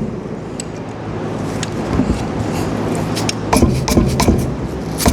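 Light metallic clicks and knocks of metal pump parts and tools being handled during reassembly, sparse at first and then several sharp knocks in quick succession from about three and a half seconds in, over a steady low hum.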